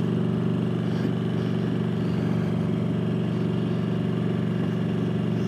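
Motorcycle engine running steadily at cruising speed on the open road, with an even rush of wind noise over it.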